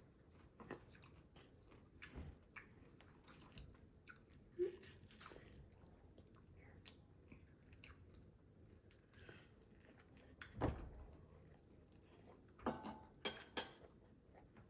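A person eating shell-on tiger prawns (sugpo): chewing and biting, with scattered sharp clicks, a louder one about ten and a half seconds in and a quick run of them near the end.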